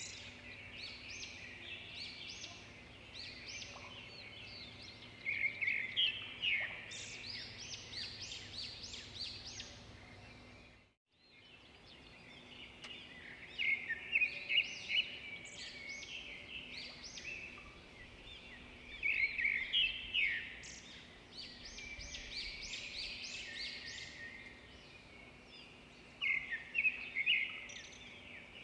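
Swiftlets twittering: repeated bursts of rapid, high chirps. There is a brief dropout to silence about eleven seconds in.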